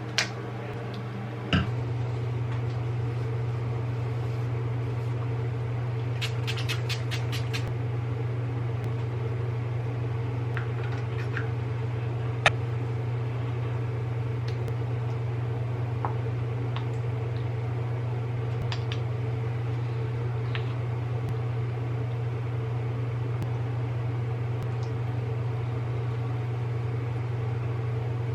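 A steady low machine hum that starts with a thump about a second and a half in, with a few faint clicks and a short run of rapid ticks partway through.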